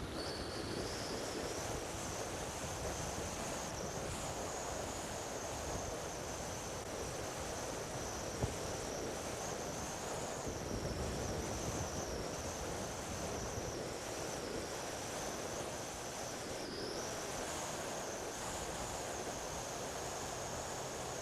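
Strong wind rushing over the microphone, with the thin high whine of the Turbo Timber 1.5 RC plane's electric motor running throughout; the whine rises in pitch about a second in and dips briefly twice, around halfway and later on.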